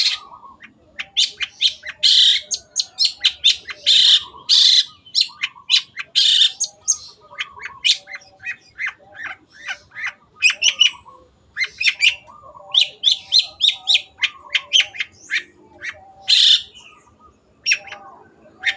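Long-tailed shrike (cendet) in full, incessant song: rapid runs of short, harsh, scratchy notes, with fainter lower warbled notes woven between them.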